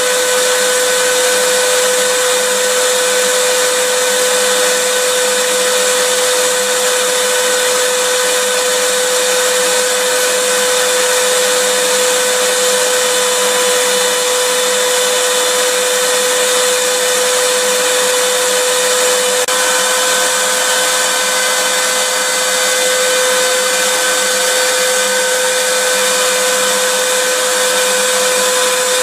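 Vacuum cleaner running steadily: an even rush of air with a constant whine over it.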